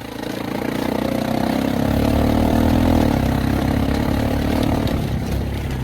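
Farm vehicle engine running, working harder with a slightly rising pitch about two seconds in, then easing back.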